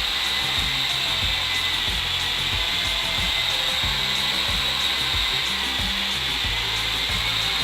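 Steady whirring of a small electric motor running without letup, with background music's bass and beat underneath.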